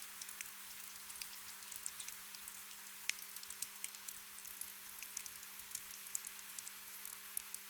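Gentle rain: a soft steady hiss with scattered drops pattering and dripping.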